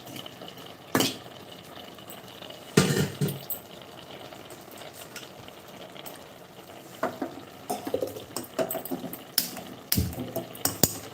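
Metal pots and utensils clanking during cooking: a single knock about a second in, a louder clatter near three seconds, then a run of quick clinks and knocks over the last four seconds.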